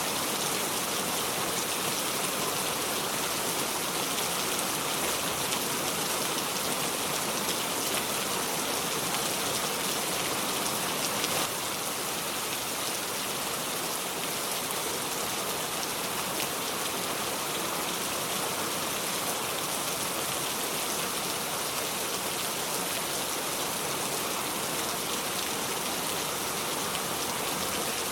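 Steady, constant rain, a dense even hiss of falling drops with no thunder. The level drops slightly about eleven seconds in.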